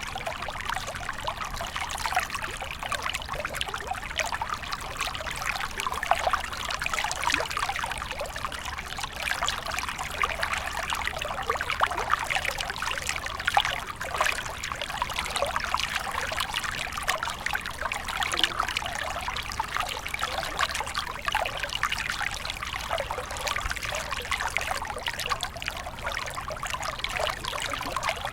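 A small stream trickling and splashing steadily over stones, a constant bubbling with many small splashes.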